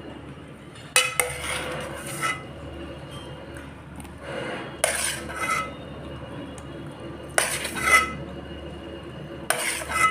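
Metal cutlery clinking and scraping against a dish while eating, in four short bursts a few seconds apart, each strike leaving a brief ringing note.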